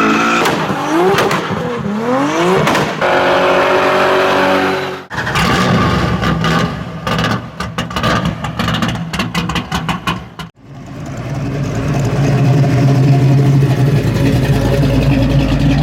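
Car engines in quick cuts. Several revs climb in pitch, then one engine holds a high-revving note. Next comes a few seconds of rapid crackling, and after that a deep, steady V8 rumble.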